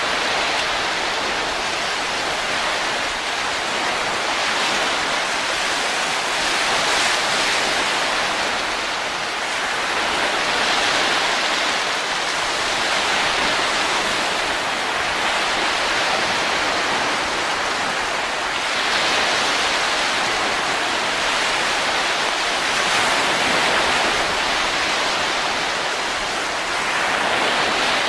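Steady rushing wind noise that swells and eases slowly every few seconds, like gusts.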